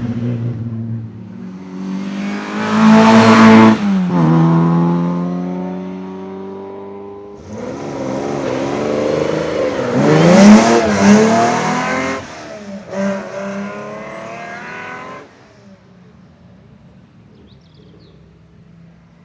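Hill climb competition car's engine revving hard under acceleration, its pitch climbing and then dropping sharply at the gear changes. A second loud spell begins about seven seconds in, its pitch rising and falling quickly, before it fades to a faint hum about fifteen seconds in.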